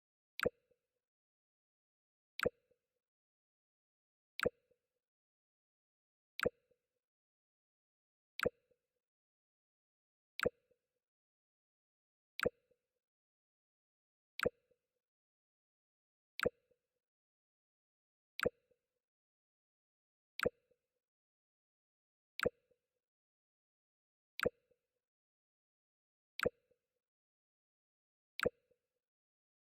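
The Mac OS X "Jump" sound effect played over and over: a short, sharp pop with a brief low after-sound, repeating every two seconds, fifteen times.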